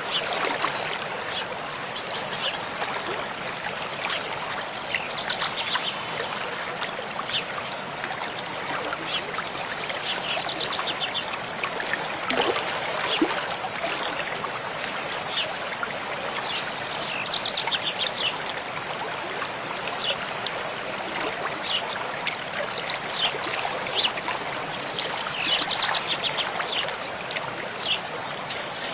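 Mountain stream flowing in a steady rush of water, with birds singing short high trills and chirps over it every few seconds.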